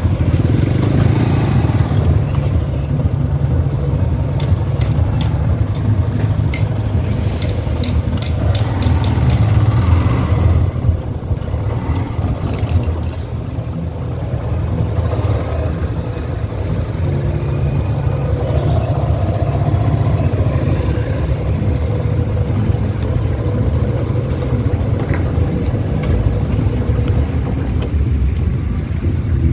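Motorcycle engine running, a steady low rumble throughout, with a quick run of sharp clicks a few seconds in.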